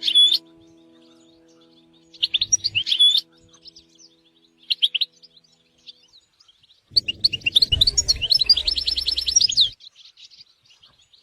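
European goldfinch singing: short bursts of twittering chirps, then a longer run of rapid twitters and trills about seven seconds in.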